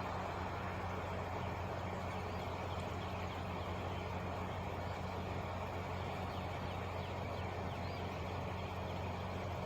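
Truck idling: a steady low engine hum that holds level without revving.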